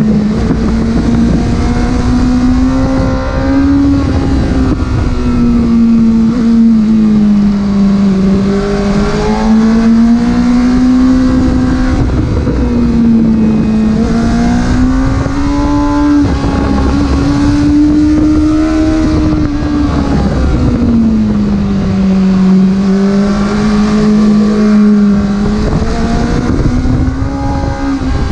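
Porsche engine running under way, its note rising and falling smoothly every few seconds as the revs change, over steady road and wind noise.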